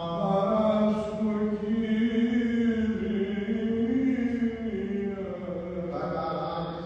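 Male voices chanting in long held notes that slowly glide up and down in pitch.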